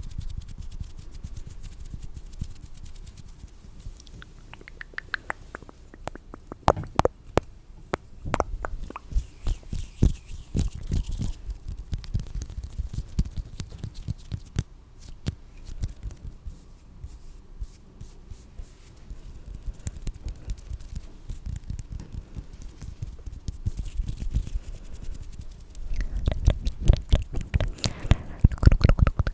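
Close-miked ASMR trigger sounds: quick, irregular clicks and rubbing, in spells that are busiest around seven to eleven seconds in and again loudest near the end.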